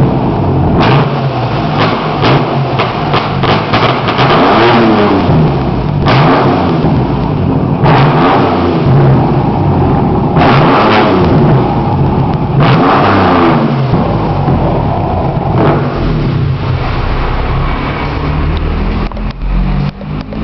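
Dodge RT's V8 engine revved in repeated blips, each rising and falling in pitch, with sharp exhaust pops and crackles between them as it spits flames from the exhaust. Near the end it settles to a lumpier, steadier running.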